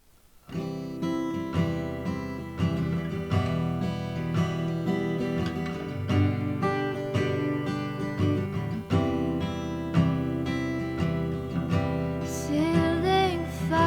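Instrumental intro of a song on acoustic guitar, plucked and strummed in a steady rhythm, starting about half a second in. A voice starts singing near the end.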